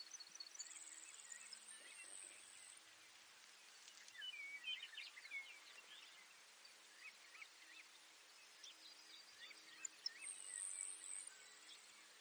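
Faint field recording of Baird's sparrow song: a high, thin buzzy trill near the start and again about ten seconds in, among many short scattered chirps, with a cluster of louder chirps about four seconds in.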